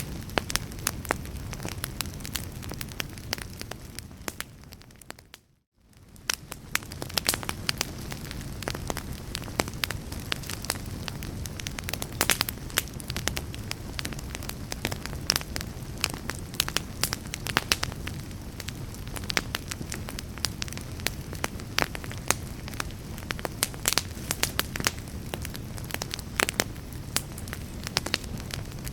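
Fireplace fire crackling, with many sharp pops over a steady low rumble. About five seconds in, the sound fades out to a moment of silence and fades back in, like the seam of a looped recording.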